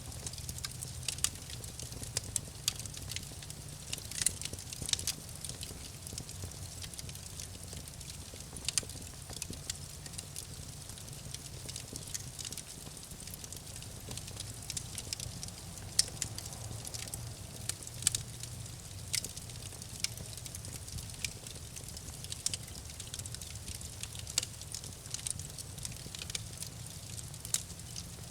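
Campfire crackling: irregular sharp pops and snaps from the burning wood over a low, steady rumble of the flames.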